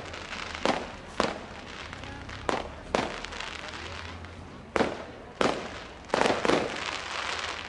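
Fireworks exploding in a rapid string of about eight sharp bangs, some in close pairs, each trailing off briefly.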